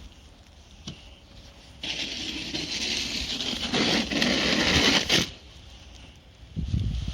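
Snow being scraped off for about three seconds, a long noisy scrape, followed by a low thump near the end.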